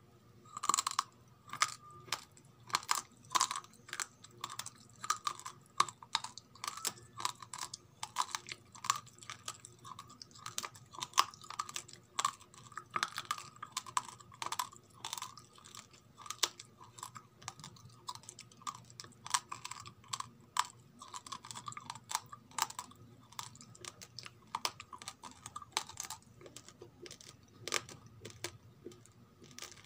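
A person chewing a mouthful of raw, uncooked rice, the hard grains cracking between the teeth in a rapid, irregular run of sharp crunches that thins out near the end.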